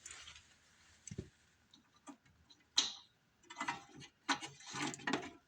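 Irregular clicks, taps and light knocks of small parts and hand tools being handled on a small snow blower engine during reassembly: a dull knock about a second in, a single sharp click near the middle, then a run of quick clicks and rattles toward the end.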